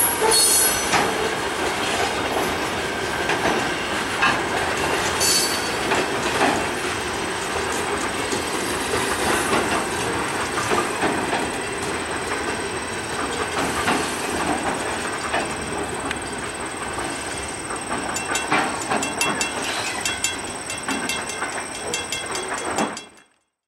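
Loaded freight gondola cars rolling past, their steel wheels clicking over the rail joints, with a brief high wheel squeal at the start. The sound cuts off abruptly near the end.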